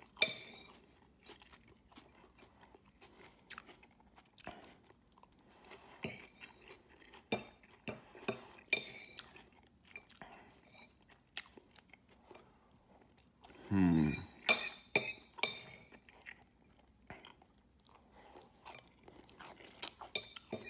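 Close-miked chewing and mouth sounds of eating spaghetti with tuna, with scattered clicks and scrapes of a metal fork on a ceramic plate. A short, low voice sound is heard about two-thirds of the way through.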